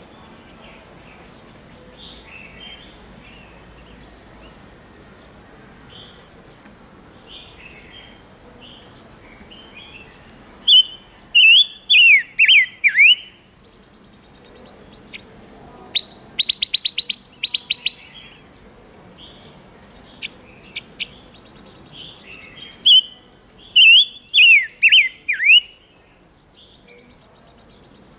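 Silver-eared mesia singing: soft chirps throughout, broken by three loud bursts. There are two runs of quick, falling whistled notes, and between them a rapid, buzzy trill.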